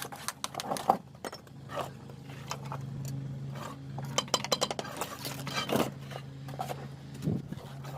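Steel bricklaying trowel clinking, tapping and scraping against bricks and mortar in a quick run of sharp taps. A steady low hum comes in about two seconds in.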